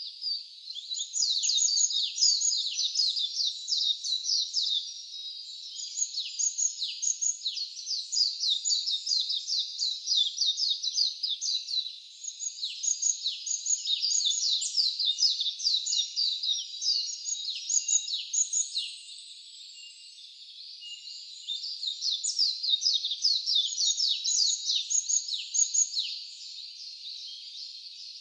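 A songbird singing long, loud phrases of rapid, high, downward-sweeping notes, about four phrases with short pauses between them, over a faint background hiss.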